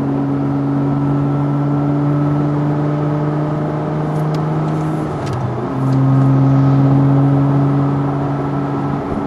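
Porsche 987 Cayman S flat-six running through an A.W.E. Tuning stainless exhaust with a steady, even engine note. About five seconds in the tone breaks off briefly, like a gear change, and comes back slightly lower in pitch and louder.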